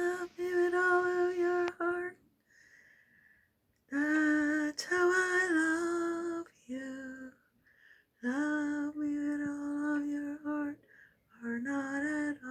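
A woman singing wordless, drawn-out notes in several phrases of about two seconds each, with short pauses between them.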